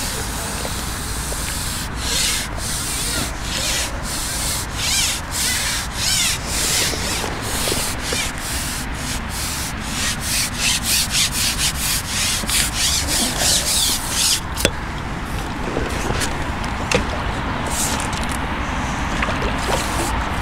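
Rhythmic rubbing or scraping strokes, about two a second, quickening and then stopping about two-thirds of the way through, over a steady low rumble.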